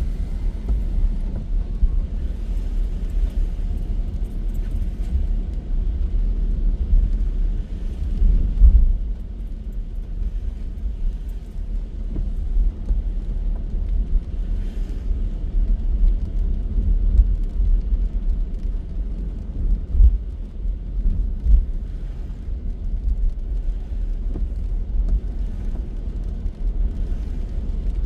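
Car driving on the road: a steady low rumble of tyres and engine.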